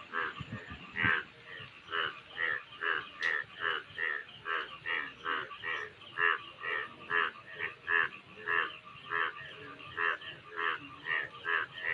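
Frog calling over and over, a steady series of short croaks at about two a second.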